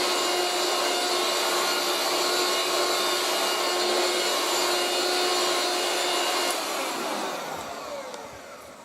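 Moulinex 237/320 handheld vacuum cleaner running with a steady whine. About six and a half seconds in it is switched off, and the motor winds down with a falling whine that fades away.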